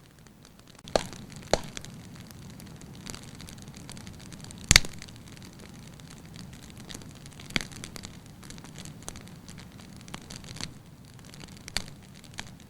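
Firewood burning in a fireplace: scattered sharp pops and cracks over a soft steady hiss, the loudest pop a little under five seconds in.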